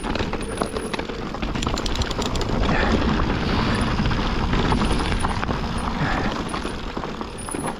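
Yeti SB160 mountain bike rolling over rough, rocky trail: tyre noise and rattling clicks under wind on the microphone. It grows louder a few seconds in and eases off near the end.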